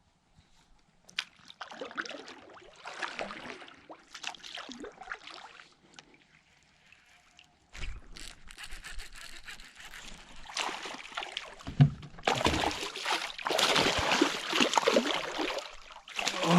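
Water splashing and sloshing around a fishing kayak as it is repositioned, in uneven bursts, getting louder from about halfway through, with a couple of sharp knocks.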